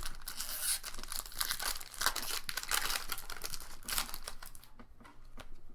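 Foil booster-pack wrapper crinkling as it is handled, in dense crackling bursts that thin out to a few faint clicks near the end.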